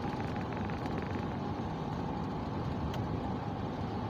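Steady road and engine noise inside a moving car, with a single sharp click about three seconds in.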